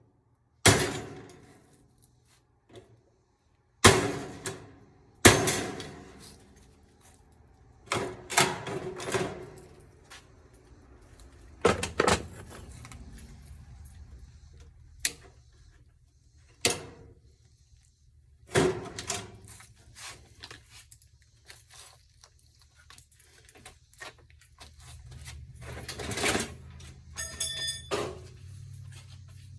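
Hard knocks and clanks, several seconds apart, from metal parts of a washing machine being handled and struck while it is taken apart for scrap. A quick run of rattling ticks comes near the end.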